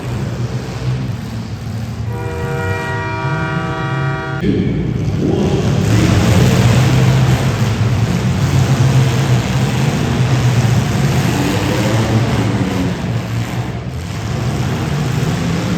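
Demolition derby cars' engines running together in a steady low rumble, with a horn blast of about two seconds starting about two seconds in. After the horn the engine noise grows louder and busier.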